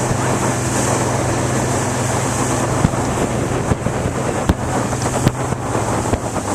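Motorboat engine running steadily under way, with wind buffeting the microphone and rushing water. From about three seconds in, several sharp thumps break through.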